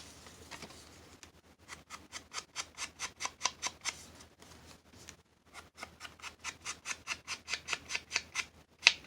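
Rapid, rhythmic strokes of a hand tool working on paper, about five a second, in two runs with a short pause between them. A single sharper tap comes near the end.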